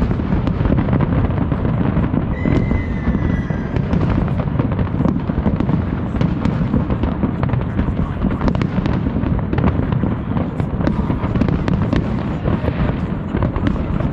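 Fireworks display going off: a dense, continuous rumble of overlapping booms and sharp crackles, with a brief high whistle about two seconds in.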